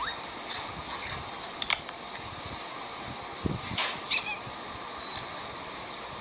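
Ramen being eaten as quietly as possible: a few faint clicks of chopsticks and bowl, then a soft thump and a couple of short squeaky slurps about two thirds of the way through, over a steady hiss.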